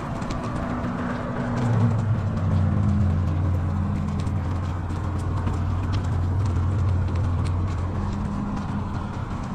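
Bicycle riding along a snowy trail: continuous rolling noise with light clicking and rattling, under a steady low hum that swells about two seconds in and eases near the end.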